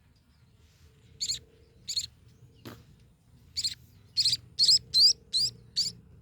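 Baby birds chirping: eight short, high chirps, a few spaced out at first and then coming in quicker succession. One soft click comes between the early and later chirps.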